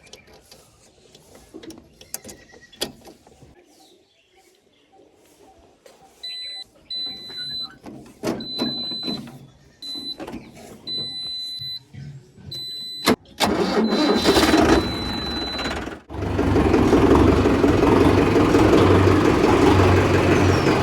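Tractor diesel engine being started: a high tone sounds on and off for several seconds, then the engine cranks and catches about two-thirds of the way in and runs loud and steady.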